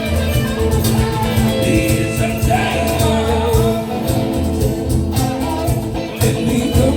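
Rock band playing: guitar over steady bass notes with percussion, and a voice singing.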